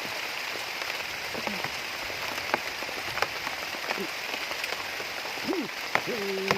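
Steady rain falling, an even hiss with scattered sharp drop and splash ticks.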